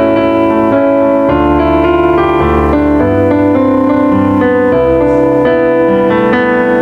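Slow, gentle piano prelude: sustained chords over a changing bass line.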